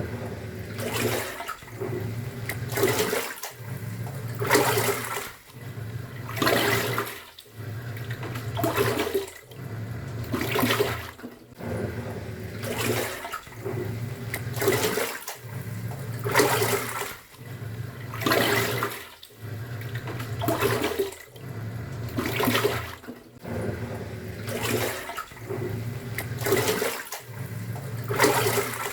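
Top-loading pulsator washing machine in its wash cycle: the motor turns the pulsator one way and then the other, each stroke about two seconds long with a brief pause between, as water and laundry churn and swish in the drum.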